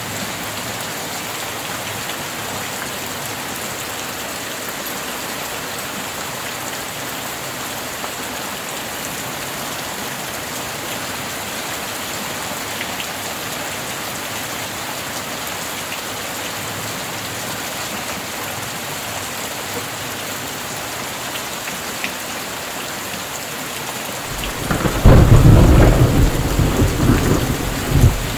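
Steady rain falling, an even hiss with no break. Near the end a loud clap of thunder breaks in suddenly and rolls on as a pulsing rumble.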